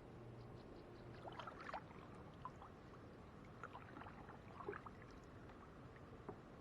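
Faint small water splashes and drips against a kayak: a scattered run of light plinks and ticks over near silence.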